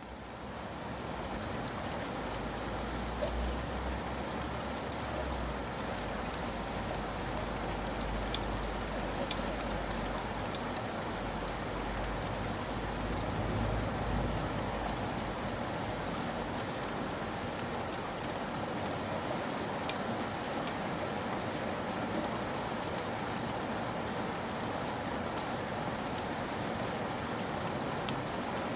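Steady rain falling, its even hiss dotted with the ticks of single drops. It fades in at the start, and a low rumble runs under it through roughly the first half.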